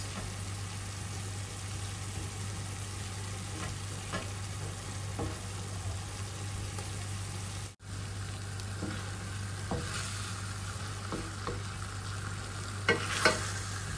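Chopped tomatoes, capers and olive oil sizzling in a stainless steel frying pan while a wooden spatula stirs and scrapes, with a steady low hum underneath. The sound drops out for an instant about halfway through, and there are a few louder spatula knocks against the pan near the end.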